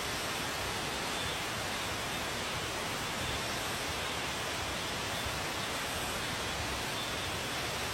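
Steady, even rushing hiss with no distinct calls or knocks, level throughout.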